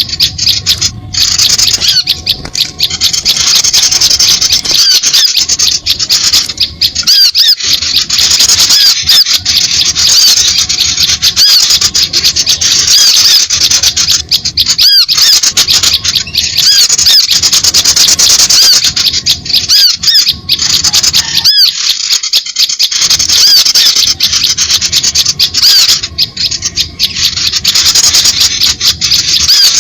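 Bird-lure recording of many small birds chattering at once: a loud, unbroken mass of rapid high-pitched chirps and trills, played to draw small birds in.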